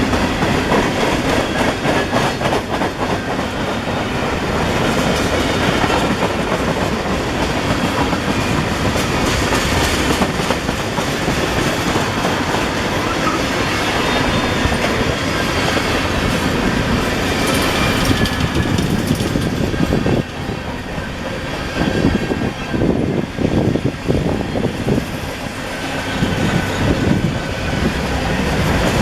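Freight cars of a CSX manifest train rolling past, a steady rumble with wheels clacking over the rail joints. The sound eases briefly about two-thirds of the way through, then the clatter comes back in uneven rhythmic groups.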